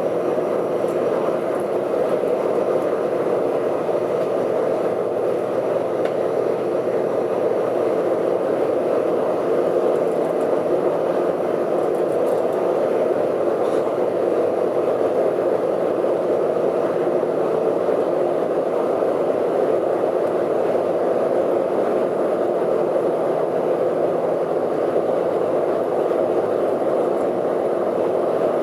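Steady cabin noise inside an Airbus A380 airliner during takeoff: jet engines and rushing air making an even rumble that holds the same level throughout.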